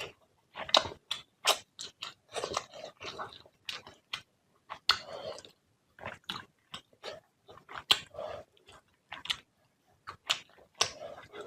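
A person eating fish curry and rice, close to the microphone: wet chewing and lip smacks in quick, irregular clicks with short pauses between mouthfuls.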